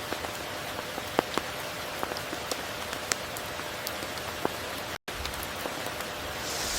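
Steady tropical rain with many sharp, close drops striking a surface. A split-second gap of silence breaks it about five seconds in.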